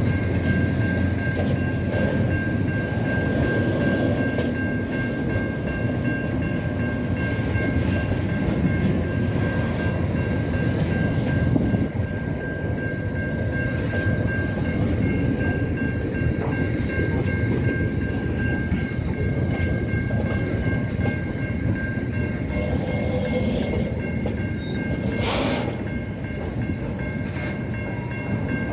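Train running steadily: a continuous low rumble with a few constant high whining tones over it and occasional sharp clicks.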